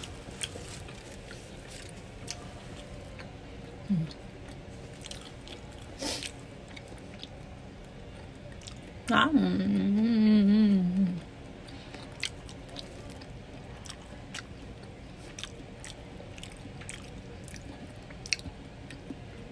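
A person chewing a Big Mac burger and the vegetables fallen from it, close to the microphone, with small wet mouth clicks. About nine seconds in there is a wavering hum of about two seconds.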